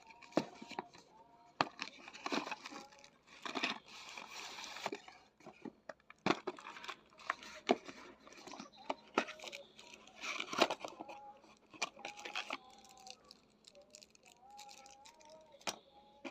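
Parcel packaging being torn open and handled: irregular tearing, plastic and cardboard crinkling, and sharp clicks and knocks as the trimmer box is unpacked.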